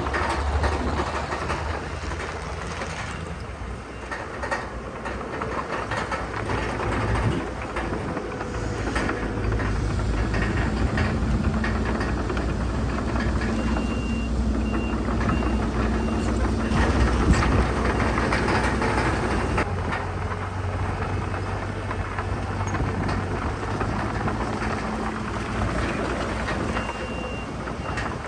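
Diesel engines of heavy earthmoving machines running, with metal clanking throughout. A reversing alarm beeps several times about halfway through and again near the end.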